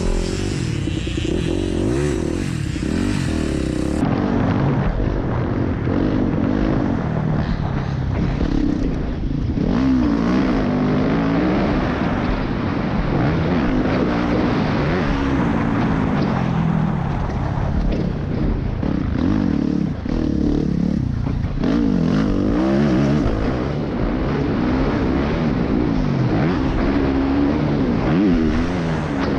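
Motorcycle engine being ridden hard, its pitch rising and falling over and over as the rider accelerates and backs off through turns.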